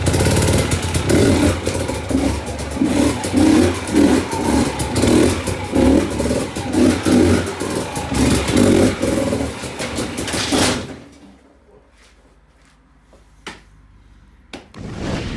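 Dirt bike engine revving in repeated pulses, about two a second, cutting off suddenly about eleven seconds in. A few sharp clicks follow in the quieter remainder.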